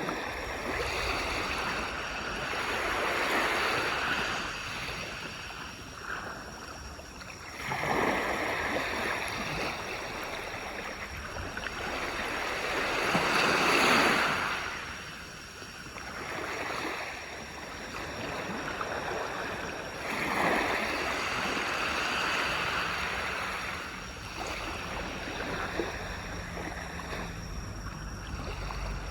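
Sea waves breaking and washing up on a beach, swelling and falling back in surges every six to seven seconds, the loudest about halfway through.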